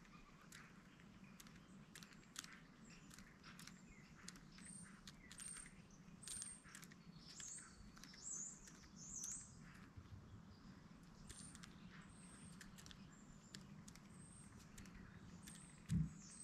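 Faint chirps and tweets of small birds, with many short high ticks and a few gliding calls around the middle, over a steady low hum. A single low thud comes near the end.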